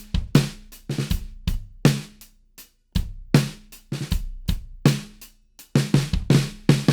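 A drum kit groove built around a 6.5-inch maple snare drum, with snare hits ringing over bass drum and hi-hat strokes in a steady rhythm.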